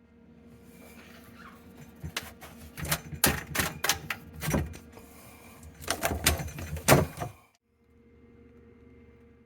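Irregular clicks, knocks and clatter of plastic sink-trap drain parts being handled and worked loose, in two flurries with a pause between them.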